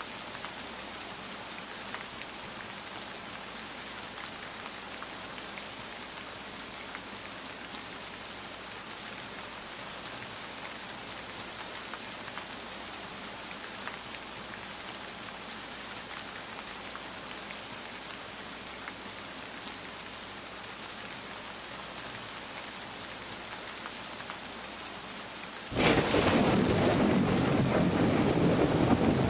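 Steady rain with faint scattered drops ticking. About 26 seconds in, the sound jumps suddenly to a much louder, deeper level of thunder and heavy rain that continues.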